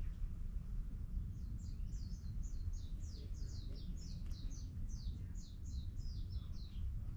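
A bird calling in a rapid series of short, high notes, each falling quickly in pitch, about three or four a second, starting about a second in and stopping shortly before the end.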